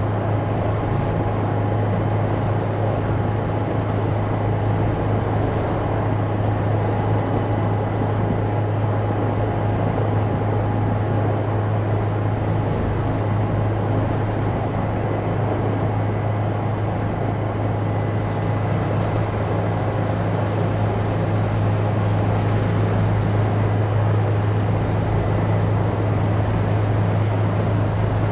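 Inside a helicopter cabin: a steady, unbroken drone of engine and rotor, a strong low hum with a thin steady whine above it.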